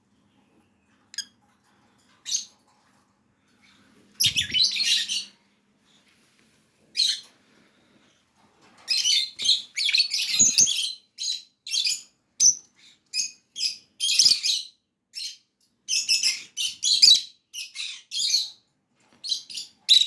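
Birds chirping in quick high-pitched bursts: a few scattered chirps at first, then near-continuous chirping from about nine seconds in.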